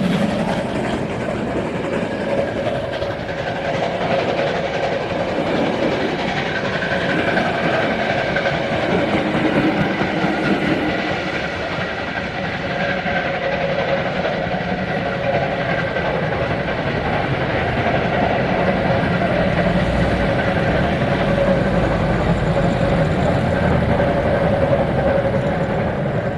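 Passenger coaches of a steam-hauled train rolling past steadily, their wheels clattering over the rail joints.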